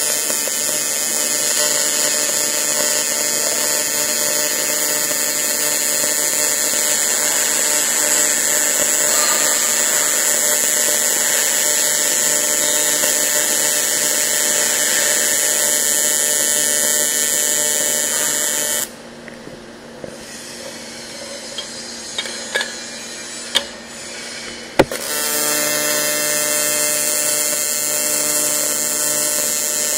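Welding arc buzzing steadily on thin A5052 aluminium sheet, laying an airtight seam. About two-thirds of the way through the arc cuts off suddenly, leaving a few seconds of low hum with light clicks. After a sharp click the arc strikes again and buzzes on.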